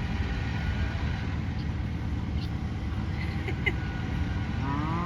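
Steady low rumble of an engine running, with a cow starting a long rising moo near the end.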